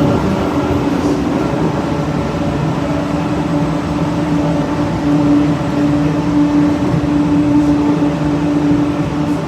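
DFW airport Skylink people-mover tram running along its guideway, heard from inside the car: a steady rumble with a constant motor hum over it.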